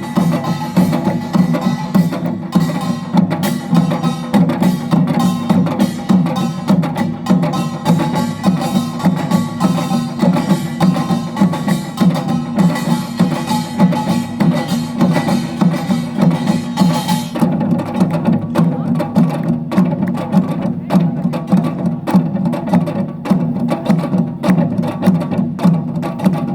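Utdari-style samulnori ensemble playing a fast, driving rhythm: kkwaenggwari small gongs, janggu hourglass drums and buk barrel drums struck densely and evenly, with the jing gong beneath. The bright metal clatter thins out about two-thirds of the way through while the drumming carries on.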